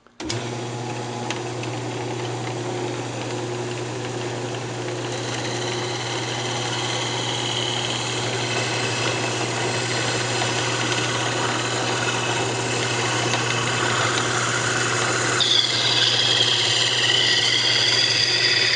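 Wood lathe running with a steady motor hum while a hacksaw blade is held against the spinning maple to part off the box lid: a continuous rasping cut that slowly grows louder, with a high squeal in the last few seconds.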